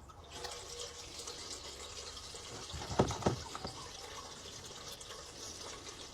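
Diesel being poured from a container into the old bulldozer's fuel tank, a steady gurgling hiss of liquid filling the tank, with a couple of knocks about halfway through.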